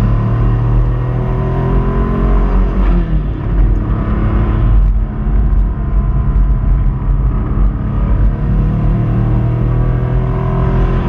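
Subaru Impreza 2.5RS's 2.5-litre flat-four engine under load, climbing in pitch, dropping abruptly about three seconds in as it shifts gear, then climbing again near the end. The engine is running on a rod bearing that has failed.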